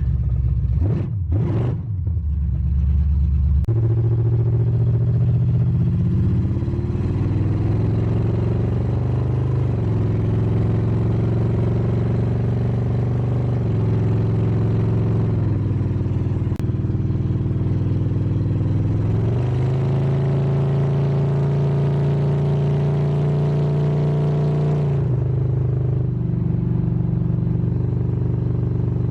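Pickup truck's engine running under way, with a quick rev up and down about a second in, then its note climbing slowly and dropping back several times.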